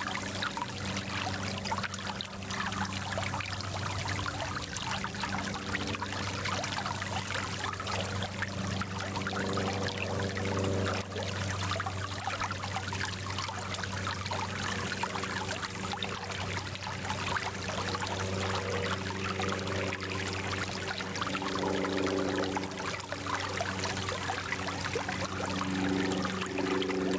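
Small mountain stream flowing over stones: a steady rush of water, with low gurgling tones under it.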